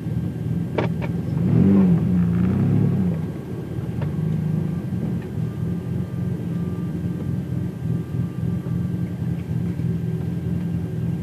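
Car engine idling with a steady low drone, heard from inside a car's cabin. It revs briefly about one and a half to three seconds in, its pitch rising and falling, and there is a sharp click just before.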